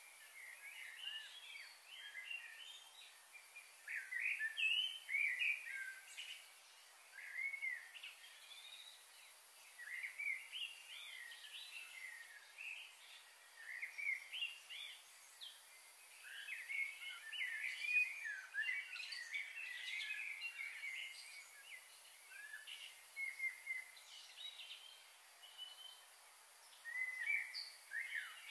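Several small birds chirping and calling, a dense run of short, quick, high notes that comes and goes in flurries over a steady faint hiss.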